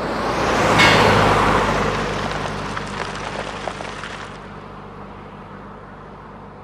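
A road vehicle passing by: the tyre and road noise rises to its loudest about a second in, then slowly fades away.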